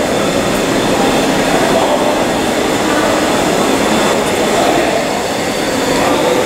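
New York City subway shuttle train in motion: a steady, loud running noise with no distinct clicks or squeals standing out.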